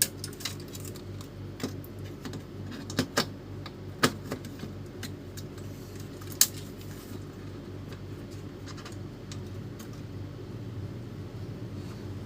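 Small hard parts and tools clicking and clinking as they are handled during a printer motor swap, about eight sharp clicks in the first seven seconds, over a steady low hum.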